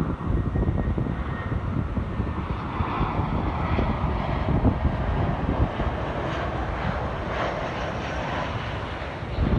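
Jet airliner passing close on its landing approach. Its engine noise swells and then fades with a falling pitch, over wind rumbling on the microphone.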